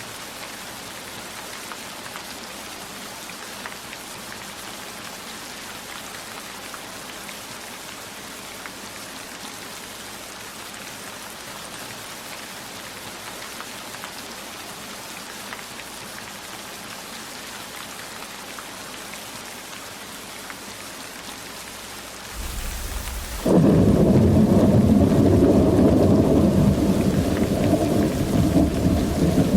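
Steady heavy rainfall hissing, then about two-thirds of the way in a low rumble of thunder builds and breaks into a loud, sustained rolling rumble that carries on to the end, far louder than the rain.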